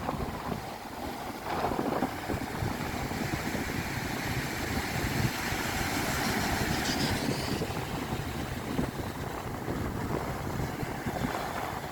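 Strong wind buffeting the microphone: a continuous rush with uneven low rumbling gusts.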